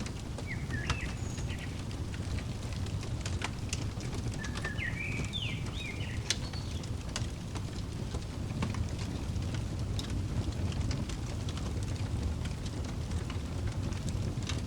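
Wood fire crackling with sharp pops over a low, steady rumble. A songbird chirps in two short phrases, about half a second in and again around four to six seconds in.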